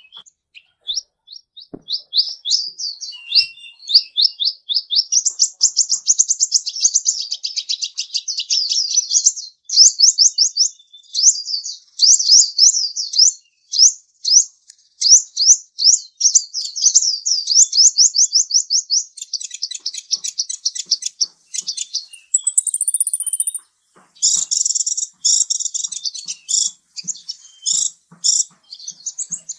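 A small bird singing in long runs of rapid high chirps, several notes a second, with short breaks between the runs.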